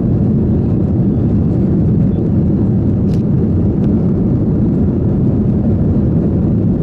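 Steady engine and air noise inside the cabin of an Airbus A321-200 jet airliner, deep and even with no change in level. A faint short click about three seconds in.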